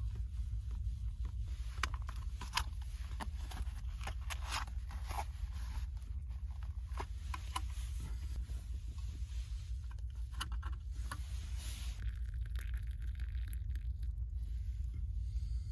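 Scattered rustling and scraping clicks over a steady low rumble, with the clicks thickest in the first half.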